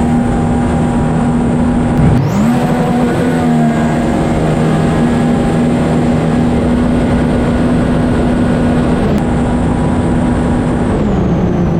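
Jet ski engine running at a steady high speed, its pitch dipping sharply and recovering about two seconds in, then dropping to a lower pitch near the end as the throttle comes off.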